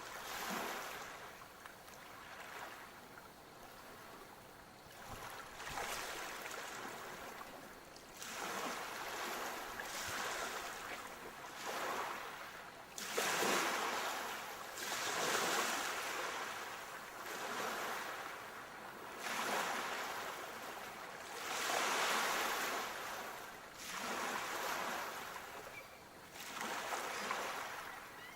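Sea waves breaking and washing up the shore, the surf swelling and ebbing in a new surge every two to three seconds.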